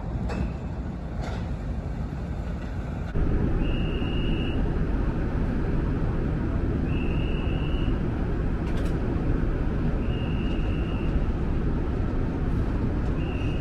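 Steady low mechanical rumble of a car ferry's engines and machinery, which gets louder about three seconds in. A single high beep repeats about every three seconds over it.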